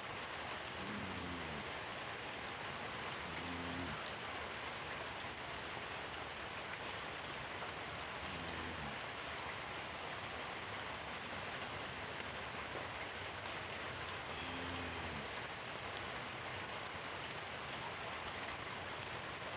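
Steady tropical rain with a frog croaking low about four times, a few seconds apart, over a constant high-pitched whine and a few faint high chirps.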